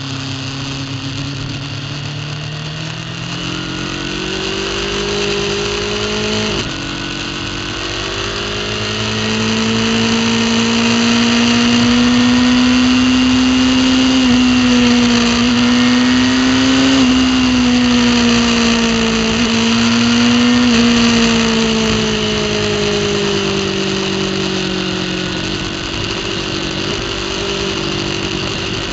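Racing superbike engine heard from on board under hard acceleration. Its pitch climbs, drops sharply at an upshift about six and a half seconds in, then climbs again and holds high at speed with brief dips, before falling steadily as the bike slows near the end, all over a steady rushing noise.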